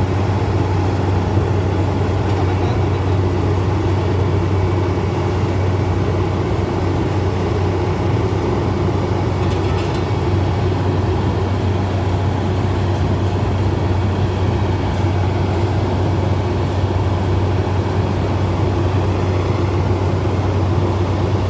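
A motor vehicle's engine running steadily with a low, unchanging drone.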